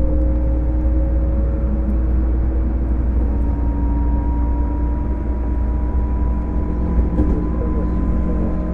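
Running sound aboard a JR East 205 series motor car with MT61 externally-ventilated traction motors: a steady low rumble under a motor whine, its tones rising slowly in pitch.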